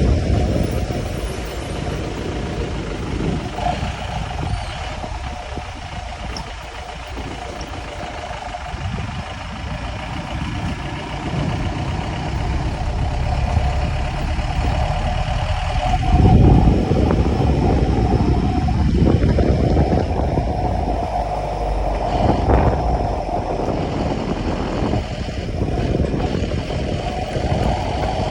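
Motor vehicle running, a steady engine and road rumble that swells and eases.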